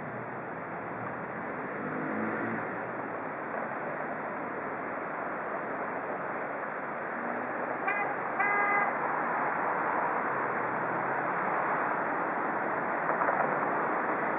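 A Bombardier double-deck passenger train pulling out of a station, a steady rolling noise that grows louder, with two short horn toots about eight seconds in.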